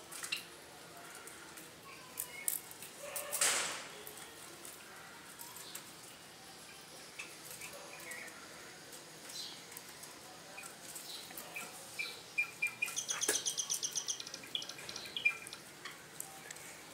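Soft, scattered bird chirps, with a short rapid chattering run of high notes about thirteen seconds in. Light clicks and a brief scratchy rustle about three and a half seconds in.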